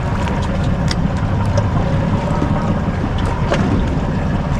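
Steady low noise of wind and water around a small fishing boat, with a few faint light ticks.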